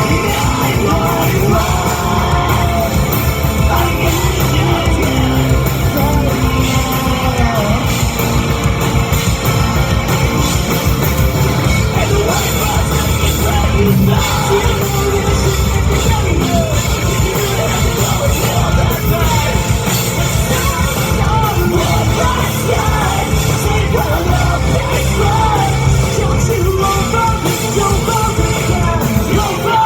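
Loud live rock band with distorted guitars and drums under a vocalist who sings and yells. The sound is dense and steady, with a large-hall echo.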